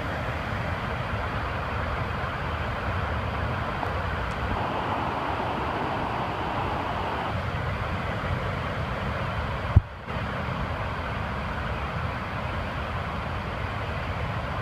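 Steady rush of a waterfall in full flood, the water raging after heavy rain. About ten seconds in there is a single short knock and a momentary dip in the sound before the rush carries on.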